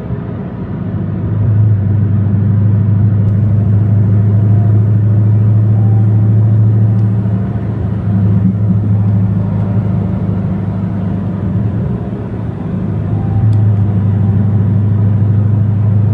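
A car engine running with a deep, steady low rumble. It gets louder about a second and a half in, eases a little midway, and grows louder again near the end.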